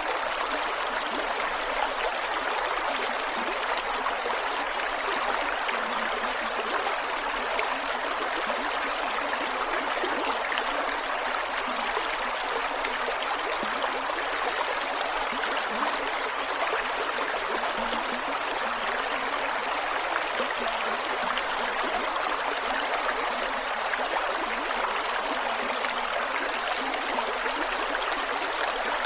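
Creek water running and gurgling over rocks, a steady rushing flow with small splashes and no pauses.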